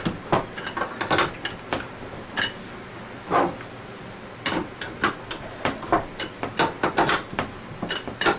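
Irregular metallic clicks and clinks, some in quick clusters and some with a short ring, from hand tools turning a threaded bearing puller. The puller is drawing two bearings out of an Anest Iwata ISP250 scroll pump at once, slow, hard going a thread at a time.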